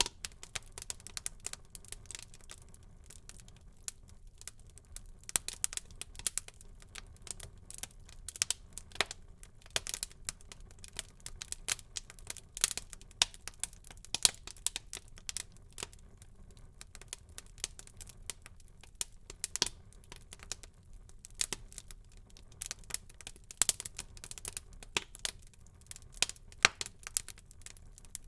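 Wood fire burning in a fireplace, crackling with many small irregular pops and snaps over a low steady rumble of the flames.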